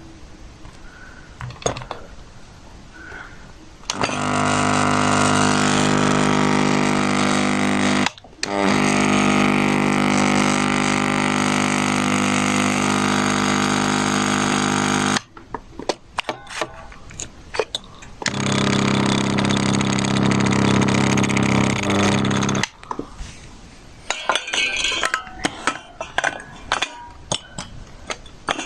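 A 168 W electrical ballast giving off a loud, steady electrical buzz. The buzz comes on about four seconds in, breaks off briefly near eight seconds and stops near fifteen seconds. It comes on again from about eighteen to twenty-three seconds, with light clicks and clinks between the spells.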